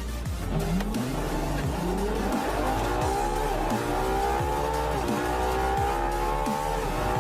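Sports car engine under full-throttle acceleration, its pitch climbing and dropping back at each quick upshift through the lower gears, then rising slowly and steadily in a high gear.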